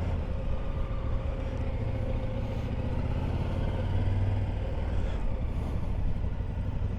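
Motorcycle engine running steadily under way, with a constant rush of road and wind noise.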